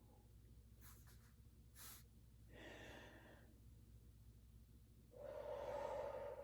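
A person breathing slowly and deeply into the abdomen: a short, soft inhale about two and a half seconds in, then a longer, louder breath out from about five seconds in. A couple of faint brief clicks come near the start.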